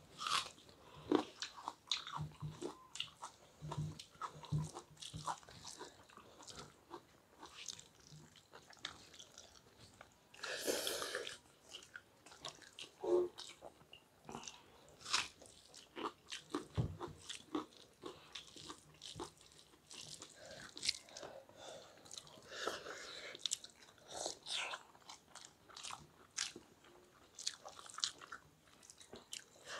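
Eating sounds: bites and crunches of raw red onion and wet chewing of rice and egg curry, in short irregular clicks and crunches.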